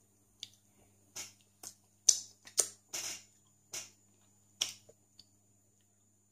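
Mouth smacking while chewing soft durian flesh: about eight short, sharp smacks over the first five seconds, the loudest about two seconds in.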